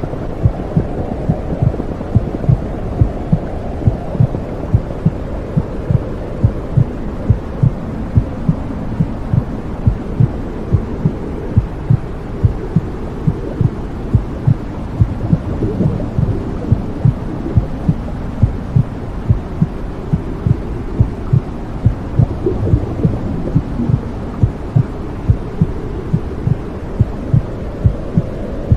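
Womb sound for soothing a baby: a low, steady whooshing noise with an even, repeating heartbeat thumping through it.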